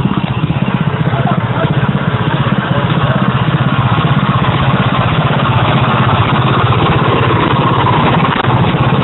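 Small gasoline engine running steadily with an even, rapid pulse.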